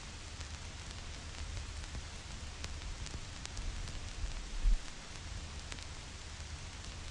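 Vinyl record crackle: a steady hiss scattered with small clicks and pops over a low rumble, with one louder low thump about two-thirds of the way through.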